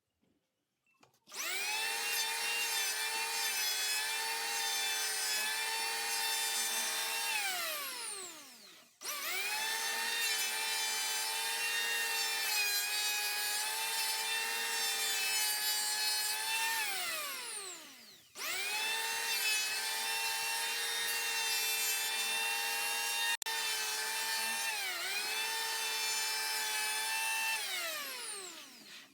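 Electric power tool cutting wood, run three times: each time it starts abruptly, runs at a steady high pitch, then winds down with a falling whine when released. In the last run the pitch dips briefly, as if under load.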